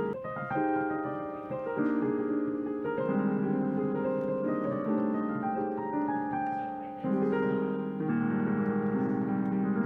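Solo jazz piano playing sustained chords with a melody above, the chords changing about once a second.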